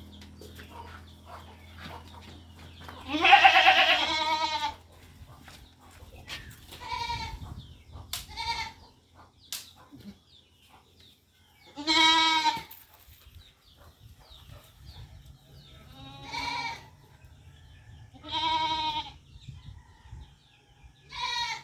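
A goat bleating again and again, about seven wavering bleats with pauses between them. The longest and loudest comes about three seconds in.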